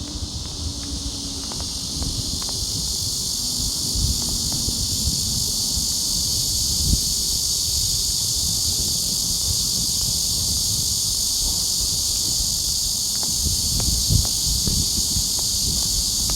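A steady, high-pitched insect chorus that swells over the first few seconds and then holds, over a low rumble of wind on the microphone, with a few faint knocks.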